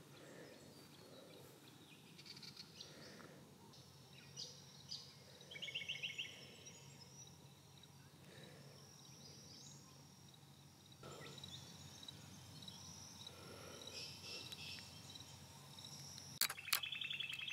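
Faint outdoor ambience with scattered bird chirps and calls, including a quick rapid trill about five seconds in and another near the end.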